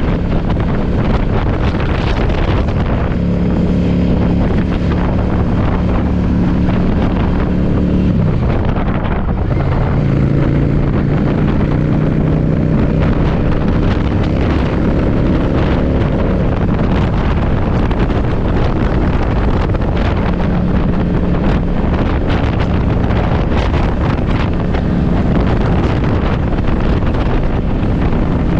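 Yamaha V-Star motorcycle's V-twin engine running at road speed under heavy wind buffeting on the microphone. About nine seconds in, the engine note drops briefly and then climbs again.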